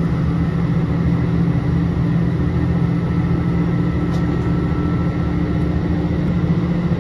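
Inside a Chizu Express HOT7000-series diesel railcar running on the line: a steady drone of the diesel engines under rumbling wheel and rail noise.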